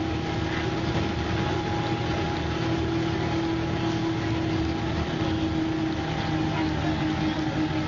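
MCW Metrobus double-decker bus engine running at a steady pitch, with a constant whine over the engine note.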